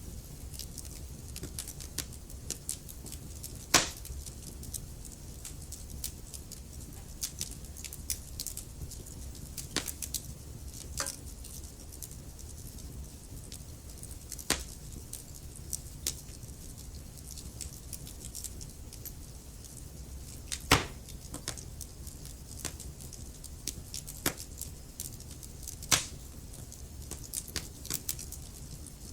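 Wood fire crackling in a fireplace: irregular sharp pops and snaps over a low, steady rumble of burning logs, with three louder snaps standing out.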